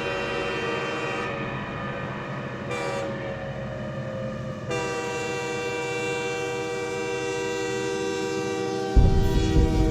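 A train horn blowing one long held chord whose notes shift a few seconds in. A sudden loud, low rumble cuts in near the end.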